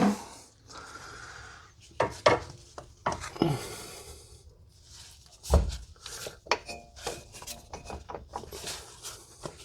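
Metal parts clicking, knocking and rubbing as a replacement half shaft's greased splined end is worked into the transmission, with one heavier thump about five and a half seconds in.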